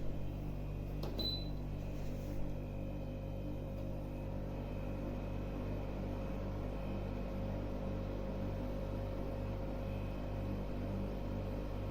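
Pro Breeze 20-litre compressor dehumidifier running: a steady mechanical hum with a faint, even pulsing beat, and a couple of light clicks in the first few seconds.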